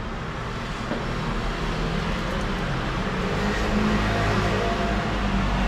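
Steady road-traffic noise, with a motor vehicle's engine hum growing louder over the second half.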